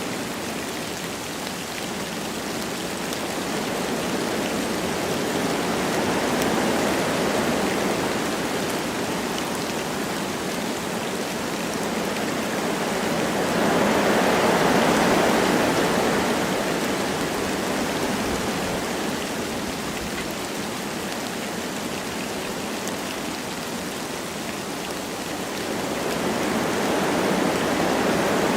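Wind blowing through forest trees with light rain falling, a steady rushing noise that swells and eases in slow gusts, strongest about halfway through and building again near the end.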